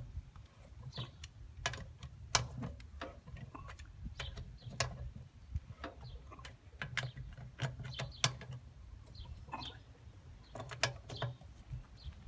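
Irregular metallic clicks and clanks of hand tools and wheel bolts as a tractor wheel is fitted onto its hub.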